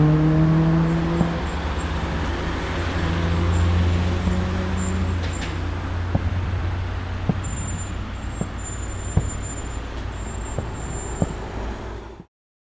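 A vehicle engine running amid road traffic, a steady low hum. From about six seconds in come half a dozen short sharp bangs, and the sound cuts off suddenly near the end.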